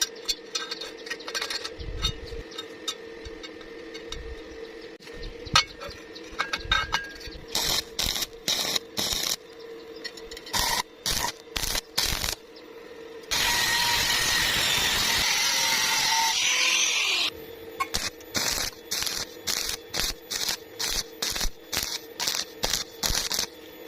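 Electric welding arc on thin sheet metal, struck in short on-off bursts, a little under two a second, with one unbroken run of about four seconds in the middle. This is stitching the weld across a hole so the thin metal does not burn through. A steady electrical hum and scattered clicks sit underneath.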